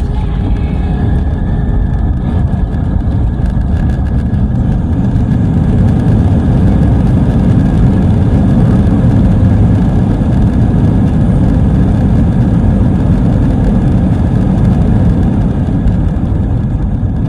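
Loud, steady low rumble of an Airbus A320 landing, heard inside the cabin: jet engine and runway roll noise, swelling somewhat in the middle.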